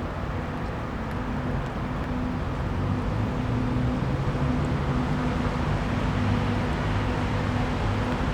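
Steady traffic rumble with a low engine hum.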